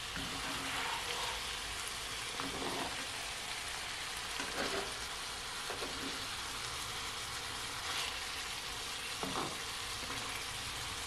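Ackee and saltfish with sweet peppers and onion sizzling steadily in a skillet, with a few soft scrapes of a spatula folding through the food.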